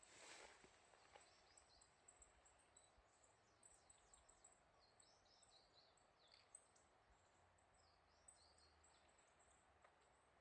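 Near silence, with many faint, short, high chirps of small birds scattered throughout and a brief soft hiss at the very start.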